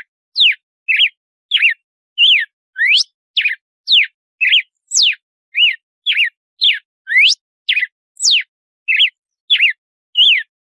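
Red-cowled cardinal (galo-de-campina) singing its 'açoite' song: a fast run of clear whistled notes, about two a second, each sweeping sharply up or down.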